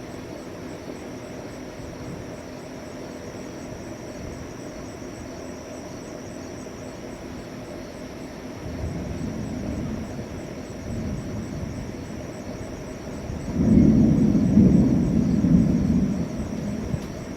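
Thunder rumbling during a lightning storm. Low rumbles start about halfway through and swell into a louder, longer roll near the end before dying away.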